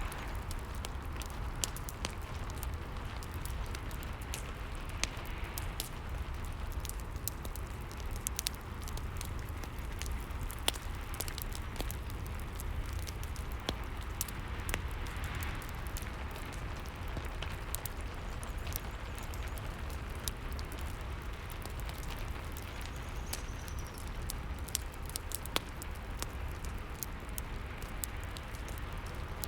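Rain and fireplace ambience: a steady hiss of rain over a low rumble, with frequent irregular crackles and pops from the burning fire.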